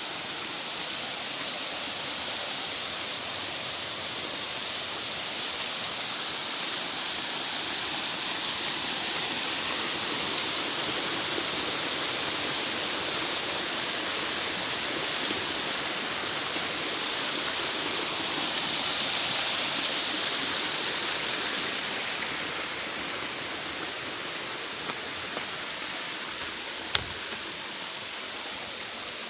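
Waterfall rushing steadily, swelling a little louder twice, with a single sharp click near the end.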